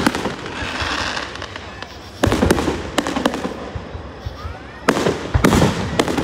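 Aerial firework shells bursting overhead: a series of sharp booms in two clusters, about two seconds in and about five seconds in, with crackling between them.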